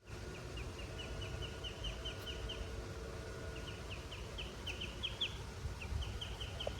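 A bird chirping in quick series of short, high chirps, about five a second, in three runs with brief gaps, over a steady low rumble.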